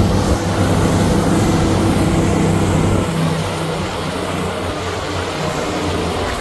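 A vehicle engine running steadily with a low hum over a hiss of noise, easing slightly about three seconds in.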